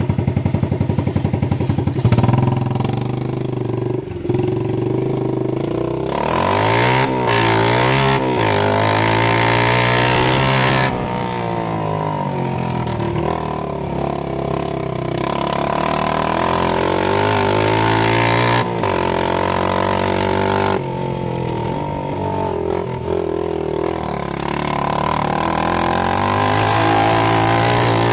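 Honda TRX90 ATV's 86cc single-cylinder engine with the muffler removed, running loud through a bare exhaust tip. It pulses steadily at first, then revs up and down over and over.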